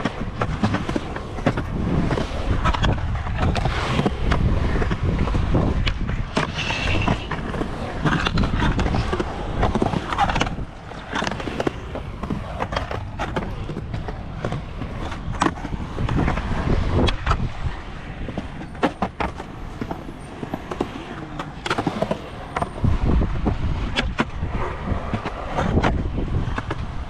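Skateboard rolling on pavement, its wheels running with a rough rumble broken by many sharp clacks and knocks of the board.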